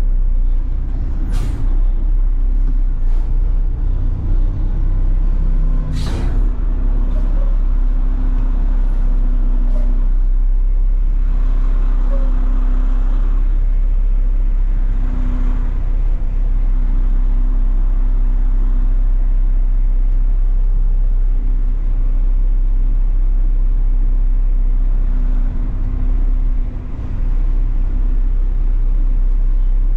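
A front-load garbage truck's diesel engine running with a steady low drone, heard from the cab. Two short sharp hisses come about a second and a half and six seconds in.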